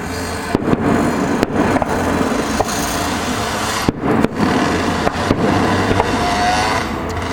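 Fireworks going off: a string of sharp bangs and cracks at uneven intervals over a continuous rumble, with a short whistling tone near the end.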